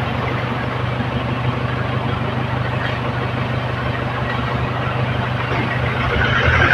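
Mini tractor engine running steadily at idle, a low even hum under a steady hiss, growing a little louder near the end.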